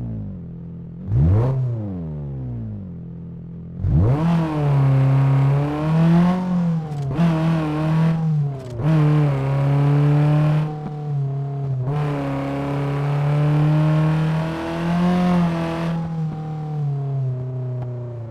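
Toyota Celica engine revving. Revs fall at the start, then a quick blip comes about a second in. Around four seconds in the revs climb and are held with several brief dips, then drop back and settle lower near the end.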